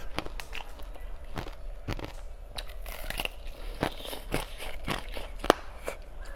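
Ice being bitten and crunched between the teeth close to the microphone: a run of sharp cracks and crunches, the loudest about five and a half seconds in.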